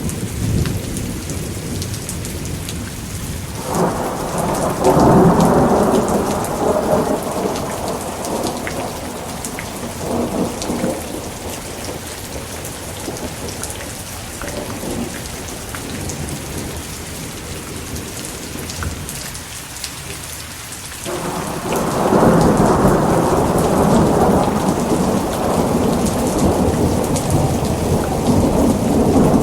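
Thunderstorm: steady heavy rain with thunder rolling twice, a rumble swelling about four seconds in and dying away, then a longer, louder roll starting about three-quarters of the way through.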